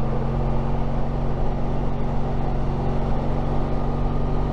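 Honda ST1300 Pan European's V4 engine running at a steady cruising speed while riding, with wind and road rumble.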